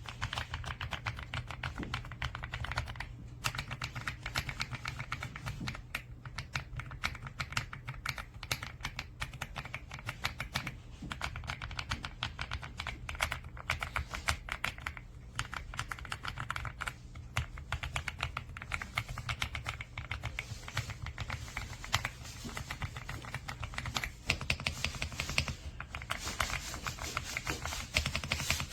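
Fast, continuous typing on an EPOMAKER x Aula F75 gasket-mounted 75% mechanical keyboard: a dense stream of key clacks, broken by a few brief pauses.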